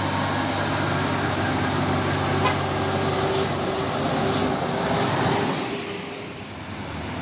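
Heavy truck's diesel engine running steadily under load, with a few short high clicks in the middle, then fading away after about six seconds as the truck moves off.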